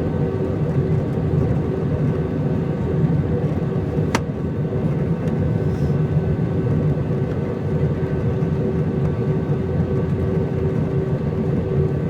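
Steady drone inside an Airbus A319's cabin in flight on approach: engine and airflow noise with a constant low rumble and several steady hums over it. A light click about four seconds in.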